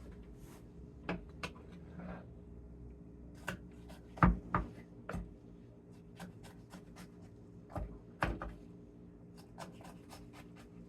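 Knife slicing sour cabbage on a cutting board: irregular knocks and clicks of the blade meeting the board, loudest about four seconds in and again around eight seconds.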